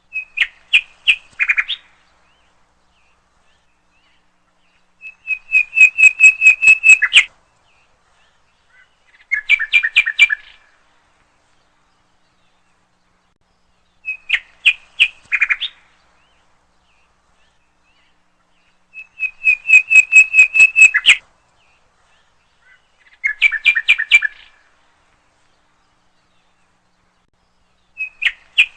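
A songbird singing short phrases of rapid repeated notes, one phrase every four to five seconds with silence between. The same set of three phrases is heard twice, as in a looped recording.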